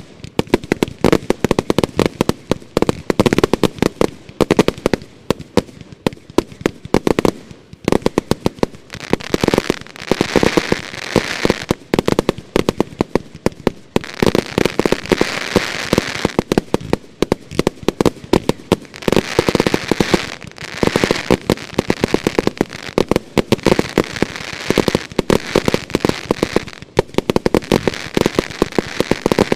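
Category F2 fireworks batteries firing in a rapid, unbroken barrage of bangs and shots, with stretches of dense crackling mixed in.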